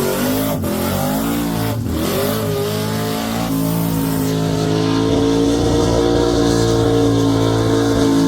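Car engine under hard throttle, its revs dropping sharply twice in the first two seconds, then climbing and holding at a steady high pitch for the rest.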